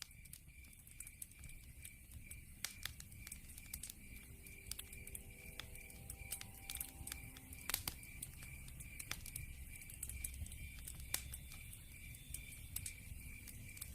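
Wood fire crackling with scattered sharp pops over a low rumble of flames. Throughout, a night insect chirps in a high, even pulse about twice a second.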